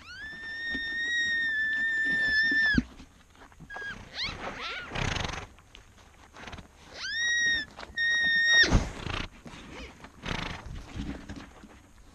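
Animal calls: a long, high-pitched steady call held for nearly three seconds and dropping off at the end, then two shorter calls of the same pitch, with rough, noisy calls between them.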